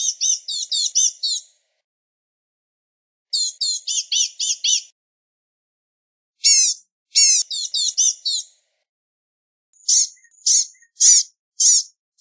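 Blue-gray gnatcatcher calling: four phrases of thin, high notes repeated quickly, each phrase lasting one to two seconds. The last phrase has slower, evenly spaced notes.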